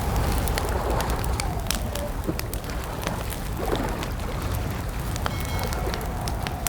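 Campfire crackling, with many sharp pops over a steady low rumble, and a wavering wind whistle that dies away in the first two seconds.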